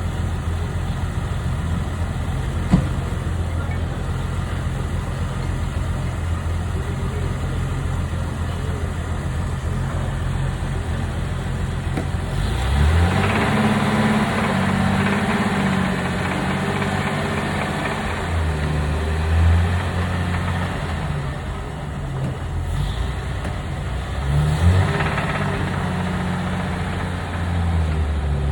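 Car engine idling steadily, then its note rises and grows louder about halfway through, settles back, and rises again near the end.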